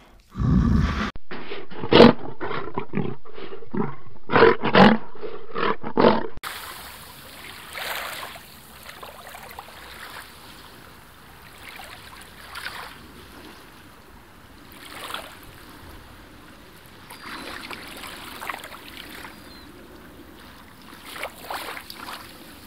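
Bear growling, a run of short loud growls and huffs for the first six seconds. Then quiet pond-water ambience with a few faint calls from a mallard drake.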